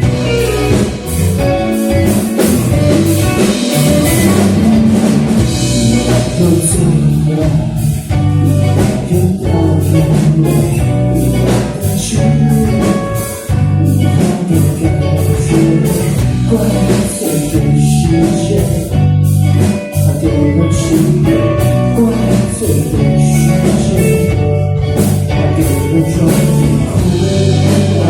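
Live band performing a song: drum kit and guitars playing, with singing.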